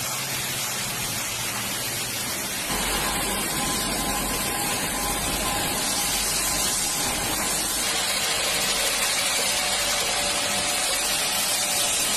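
Steady hiss of machinery noise with a low hum. About three seconds in, a deeper hum and a faint steady whine come in.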